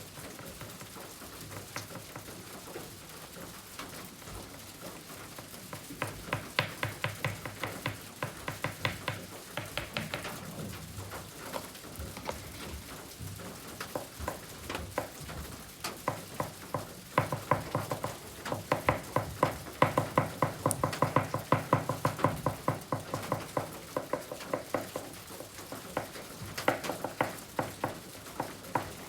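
Oil pastel scratching across kraft paper in quick repeated strokes, coming in runs of several seconds with quieter pauses between.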